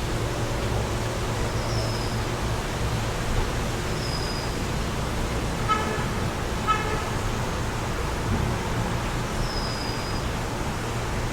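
Steady wind and road traffic noise, with a car horn tooting twice briefly about a second apart midway through. A few short, high chirps from birds come through now and then.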